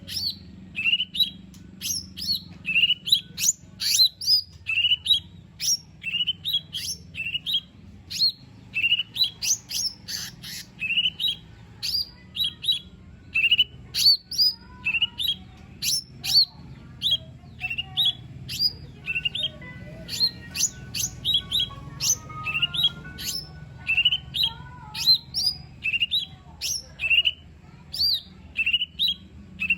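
Lesser green leafbird (cucak ijo mini) calling in a fast, unbroken run of short, sharp rising chirps, two or three a second, over a faint low hum.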